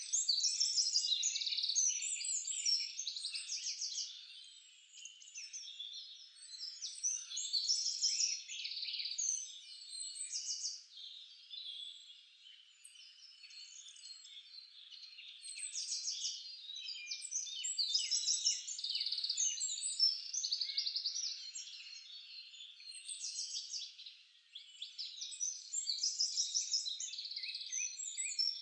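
Songbirds chirping and trilling, several overlapping calls swelling and fading in bursts.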